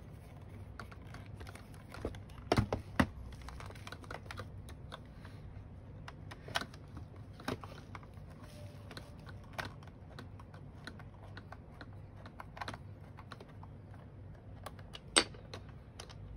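Irregular small clicks and ticks of a screwdriver working a screw out of the plastic battery housing of a Dyson V8 cordless vacuum, with a few louder knocks about two and a half seconds in and near the end.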